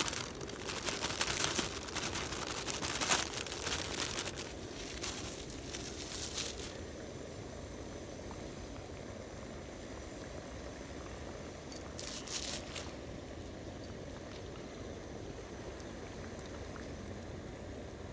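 Plastic packaging crinkling and rustling as ramen toppings are handled, for about six seconds. Then comes a steady low hiss of the ramen pot cooking on the stove, with a brief rustle about twelve seconds in.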